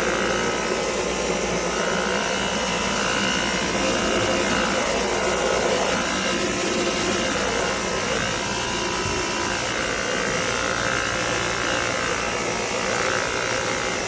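Stick vacuum cleaner running steadily, a constant motor whine over a rush of air.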